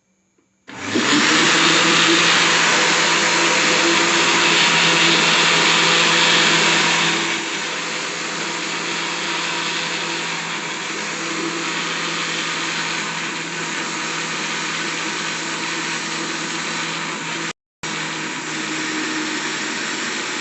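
Electric countertop blender switched on about a second in, running steadily as it beats a thick batter of flour, oil, milk and eggs. It gets quieter about seven seconds in and keeps running, with a brief break near the end.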